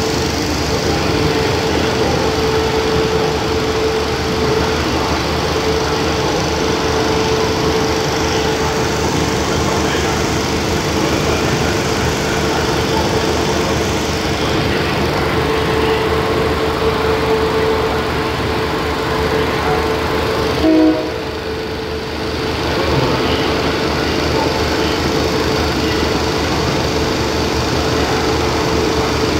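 Passenger train standing at the platform with its engines idling: a steady machinery hum with a constant mid-pitched tone. About 21 seconds in there is a brief louder sound, then the hum dips for a moment and comes back.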